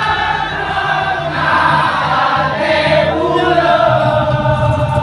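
Several voices singing together over music, with a steady low hum underneath.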